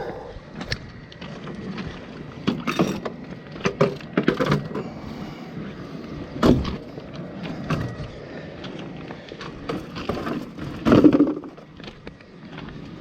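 Irregular knocks, clunks and rattles of parts and tools being handled on a generator, with a sharp knock about six and a half seconds in and a louder clatter near eleven seconds. A steady hiss of heavy rain runs behind.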